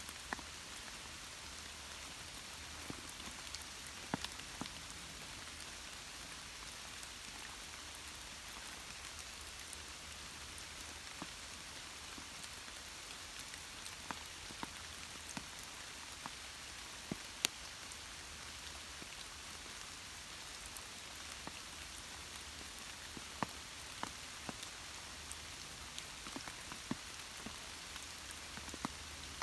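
Steady rain hiss with many scattered sharp drips of individual drops landing on nearby surfaces.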